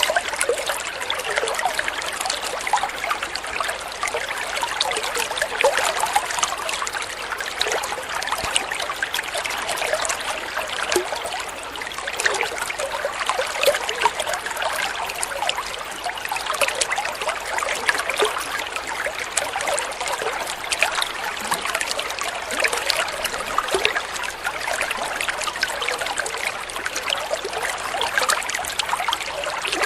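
Flowing water trickling and babbling steadily, many small splashes and bubbles running together without a break.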